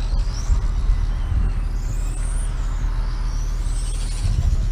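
Racing motorcycle engines revving as the bikes lap the circuit, their whine rising and falling in pitch several times as they accelerate and shift, over a steady heavy low rumble.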